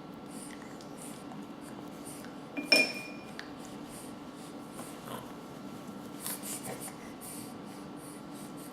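A spoon clinks sharply once against a feeding dish about a third of the way in, with a brief ring. A few softer clicks and scrapes of the spoon follow later.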